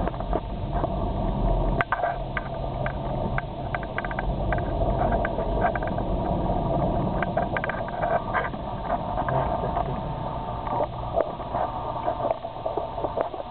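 Car driving slowly on a snow-covered road, heard from inside the cabin: steady engine and road rumble with many irregular clicks and crackles. The low rumble drops a little about two seconds in.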